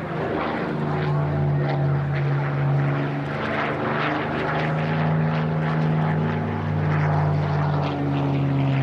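Piston aero engines of the Battle of Britain Memorial Flight's Lancaster bomber and Spitfire fighter flying a display: a steady drone of several overlapping engine notes.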